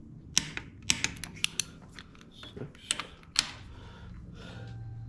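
Sharp metallic clicks of a hand wrench working a bolt, several irregularly spaced clicks with the loudest about three and a half seconds in.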